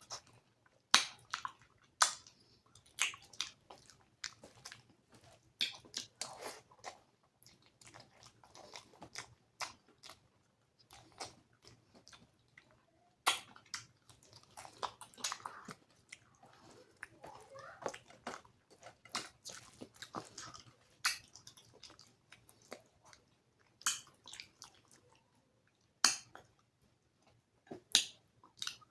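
Close-miked chewing of mouthfuls of rice and curry, with wet mouth smacks and sharp clicks coming irregularly throughout and a few louder ones.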